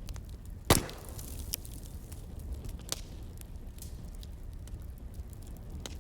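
Wood fire crackling over a low steady rumble, with irregular small snaps and one loud pop just under a second in.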